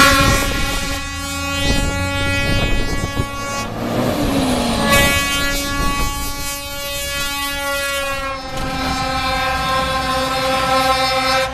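Multi-tone train-style air horns on a Scania show truck sounding in long, held blasts, the chord changing about five seconds in and again near eight and a half seconds in.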